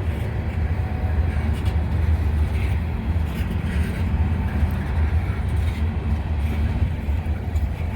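Loaded grain hopper cars of a freight train rolling past, a steady low rumble from the wheels on the rails with a few faint clicks.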